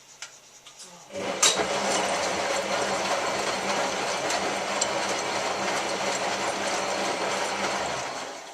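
Hotpoint 9534A washing machine's drum tumbling in a rinse, its motor running and the wash inside churning. It starts about a second in and stops near the end.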